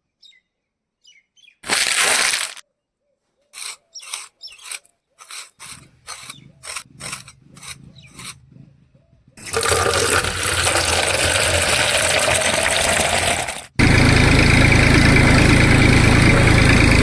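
A string of short clicks and knocks, then steady rushing water from a miniature homemade water pump. It cuts abruptly and returns louder, with the small pump motor humming under the flow.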